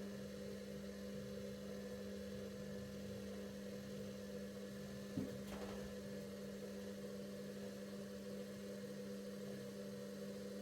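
Bauknecht WA PURE ST 14 FLD washing machine's drum motor running with a steady, even hum as it turns the drum one way during the back-and-forth tumbling of the steam self-clean programme. A single click about five seconds in.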